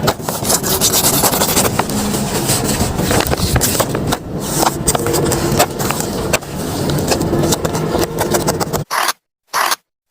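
Paper blind bags being handled and torn open: continuous rustling and crinkling of paper and tape with many small scrapes and clicks. The sound cuts out to silence twice near the end.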